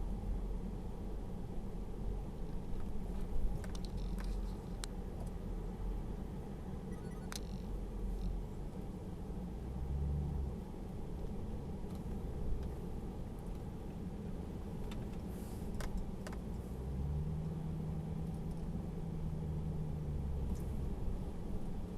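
Low, steady car rumble, with a few light clicks and a steady hum that comes in for a few seconds near the end.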